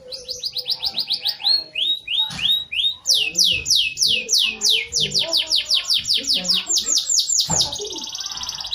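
Canary singing one continuous song of rapid trills made of repeated downward-sweeping high notes. The phrases change several times, and a fast buzzy trill comes near the end. The song is tutored with bar-winged prinia (ciblek) phrases.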